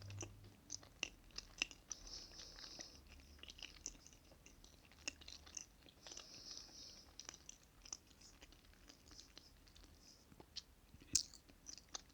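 Close-miked chewing of soft chocolate cake, with many small wet, sticky mouth clicks at an irregular pace and a sharper click about eleven seconds in.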